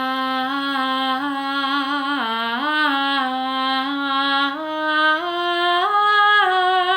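A woman singing one long wordless 'ah' line on a single breath, holding each note without breaks; the melody dips about two seconds in, then climbs step by step through the second half.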